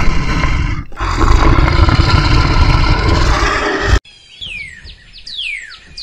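A Eurasian lynx growling loudly and hoarsely: a call of about a second, then a longer one of about three seconds that cuts off suddenly. After it a bird calls with a run of quick whistles, each falling in pitch.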